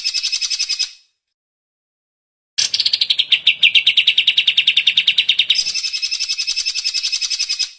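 Cucak ijo (green leafbird) singing in rapid, fast-repeated chattering phrases. One burst stops just before the first second. A second, longer burst starts a couple of seconds later with a falling note, then jumps to a higher pitch near the end.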